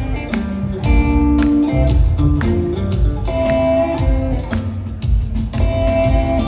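Live rock trio playing an instrumental passage: electric guitar notes over bass and drums, recorded on a phone in the audience.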